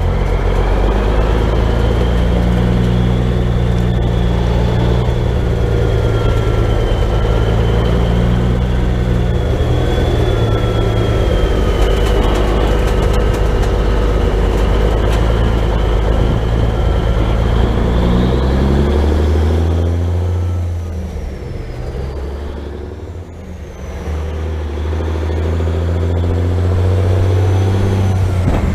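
Heavy truck's diesel engine running steadily on the road. About twenty seconds in the engine note shifts and the sound eases off for a few seconds, then builds again.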